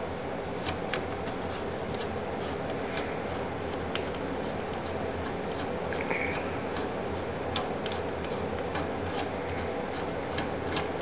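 Light, irregular clicks and taps of hands handling computer hardware while removing a CPU heat sink, over a steady low hum.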